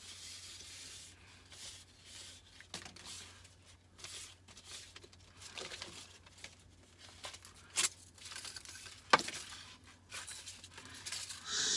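Crinkling and tearing of aluminium foil and paper as the wound layers of an electrolytic capacitor are peeled apart by hand, with a couple of sharp clicks. A louder hiss sets in right at the end.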